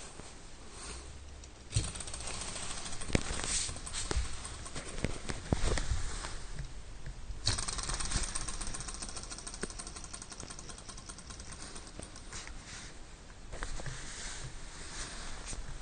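Small 2 cc Stirling engine of a toy car model running, its moving parts clattering and ticking unevenly. The owner reckons it needs more adjustment to turn freely.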